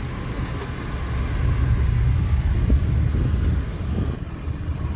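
Motor vehicle running, a steady low rumble with faint road or wind noise.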